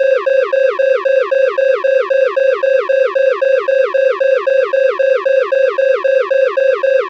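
Loud electronic alarm tone repeating rapidly, about four to five pulses a second, each a steady high beep that drops in pitch at its tail.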